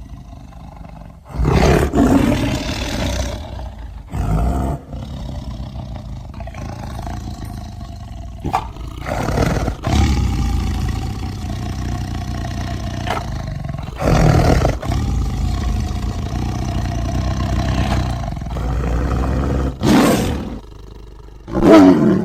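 Big-cat roars and growls made from tiger and sabertooth sound effects. There is a series of loud roars, each starting suddenly a few seconds apart, with long rumbling growls between them. The last roar near the end drops in pitch.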